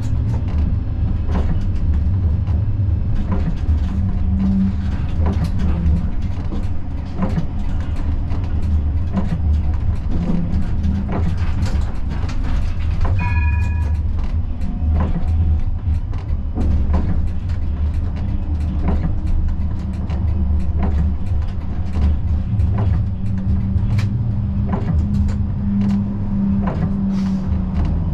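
Siemens Combino tram heard from the driver's cab: a steady low rumble with frequent irregular clicks and knocks, and a short electronic beep about thirteen seconds in.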